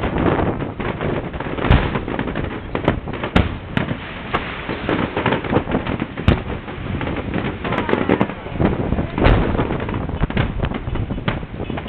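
A fireworks display going off: many sharp bangs at irregular intervals, several a second at times, over continuous crackling.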